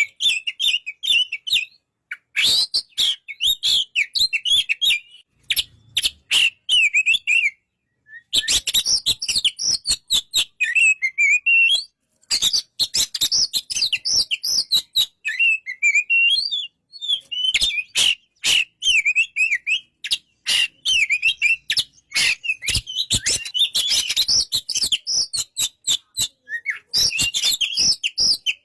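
Oriental magpie-robin (kacer) singing in bursts of rapid, varied warbling phrases. The phrases are broken by brief pauses and studded with sharp clicking notes.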